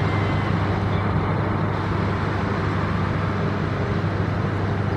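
Steady rumble of a passenger train's coaches running on the rails at speed, with a low hum underneath.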